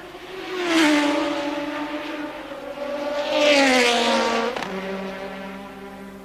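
Two 1983 Formula One cars passing at racing speed one after the other, each engine note loud as it goes by and dropping in pitch as it leaves. About four and a half seconds in the sound cuts sharply to a steadier, quieter engine note.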